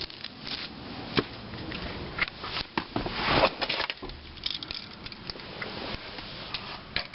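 Scattered clicks, knocks and rustling from handling things, with no engine running yet.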